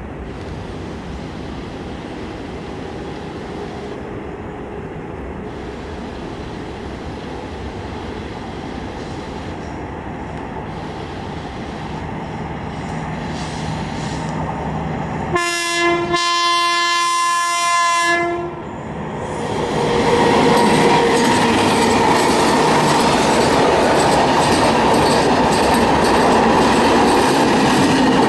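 A WAP-7 electric locomotive-hauled train approaching, its noise slowly building. About halfway through, the locomotive's horn sounds once, a steady chord held for about three seconds. The train then passes close and loud, with wheels clattering over the rail joints.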